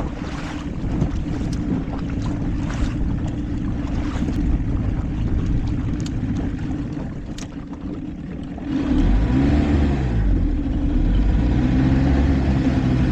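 Outboard motor of an old bass boat running over wind and water, with a sharp splash every second or so. About nine seconds in the engine gets suddenly louder and its pitch surges up and down before it steadies. This uneven running is not healthy: the motor has a stalling problem that fresh gas did not fix.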